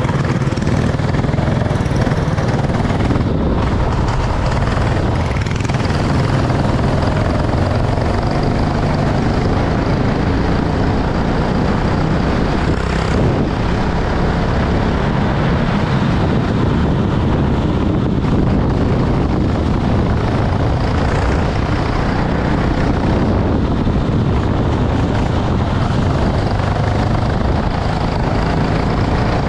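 Racing kart engines running at speed under a steady rushing noise, the engine pitch wavering up and down.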